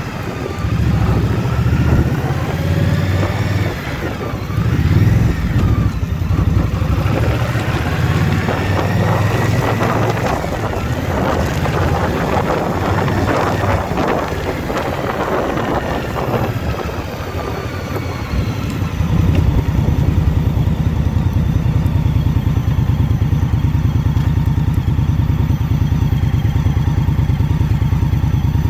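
The V-twin engine of a 2021 Indian Scout Bobber Twenty motorcycle, heard with wind noise, its pitch rising and falling through the first part. About two-thirds in it settles into steady, even low running.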